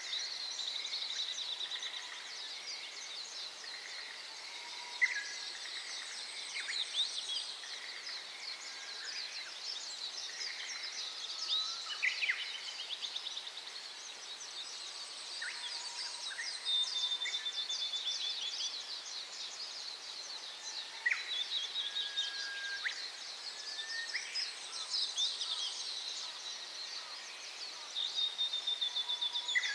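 Small songbirds chirping, trilling and whistling repeatedly over the steady rush of a clear mountain stream.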